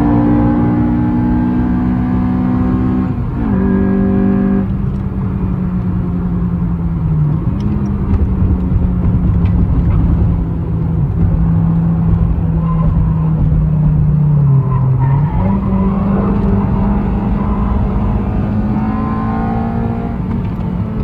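Car engine pulling hard up a winding mountain road, its note held high and fairly steady. The pitch steps down about three seconds in and dips and recovers twice more, as the driver shifts and lifts for bends.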